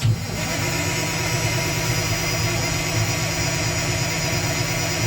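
Diesel truck engine starting with a sudden burst and then idling steadily with an even low pulse.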